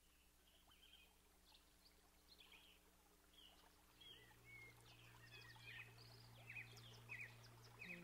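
Faint birdsong fading in: many short chirps and twitters, growing louder and busier, over a low steady hum that deepens about halfway through.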